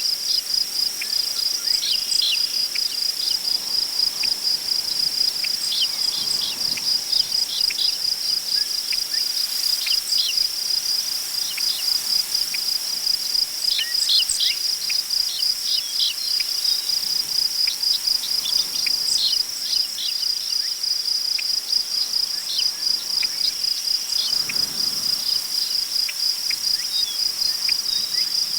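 Crickets chirping in a steady, rapid high-pitched pulsing chorus. Short faint bird chirps are scattered through it, and soft wind through tall prairie grass swells gently a couple of times.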